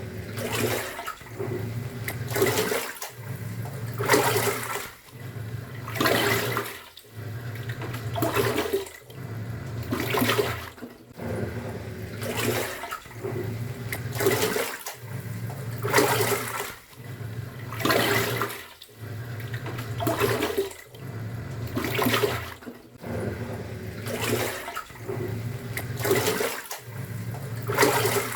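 Top-loading washing machine agitating a load: the pulsator motor hums and reverses about every two seconds, each reversal followed by a surge of sloshing water, in a steady repeating rhythm.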